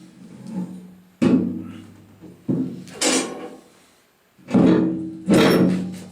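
The water hopper of a Fuller & Johnson 5 HP hit-and-miss engine being lowered and set onto the engine: about five metal clunks, each leaving a ringing tone that fades, with a brief scrape in between.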